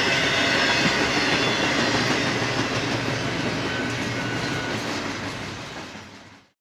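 BNSF freight train's cars rolling past on the rails, a steady clatter of wheels with faint squeal. It fades over the last second or so and cuts off shortly before the end.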